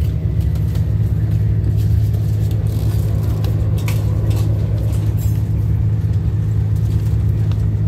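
Steady low rumble of a moving train heard inside the passenger carriage, with a few brief crinkles of foil food sachets being handled on the seat tray.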